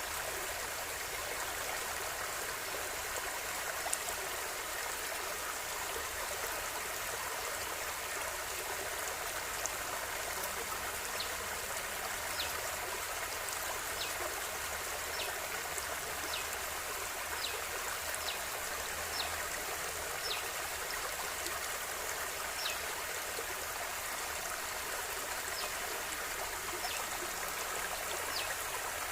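A river flowing steadily, its water making a continuous rushing babble. From about a third of the way in, faint short high clicks recur roughly once a second over the flow.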